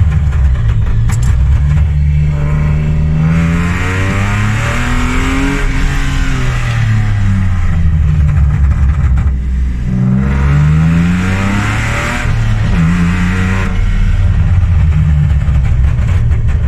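Swapped-in engine of a Jaguar XJ pulling hard under acceleration. Its pitch climbs and drops back at each gear change, twice over.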